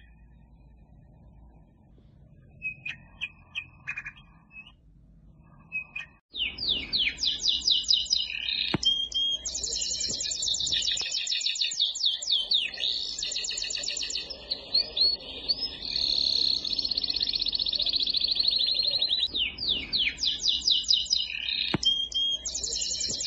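Songbird singing: a few short chirps in the first seconds, then from about six seconds in a continuous run of rapid, high trills and chirps.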